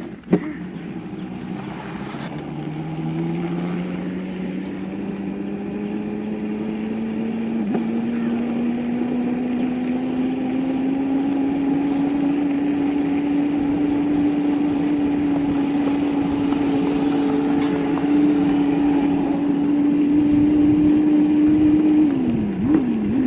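Small mini dirt bike engine revving up steadily over about ten seconds and held at high revs for a long stretch, then the throttle is chopped and blipped a couple of times near the end. A sharp click comes right at the start.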